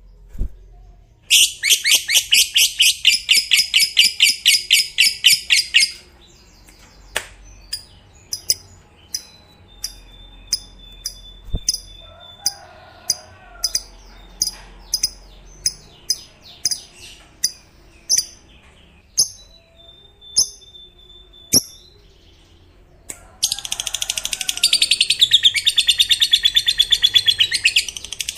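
Fighter lovebird giving its long 'ngekek' chatter: a fast, rattling trill for about five seconds, then single sharp chirps about once a second with a couple of thin held whistles, and another long fast trill starting near the end.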